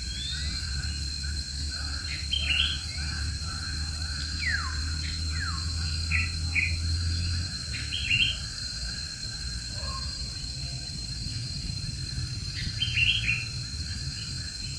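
Birds chirping: scattered short chirps and a couple of quick falling whistles, over a steady high-pitched background tone.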